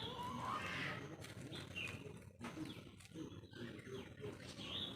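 Faint bird calls: a few short chirps over a quiet outdoor background.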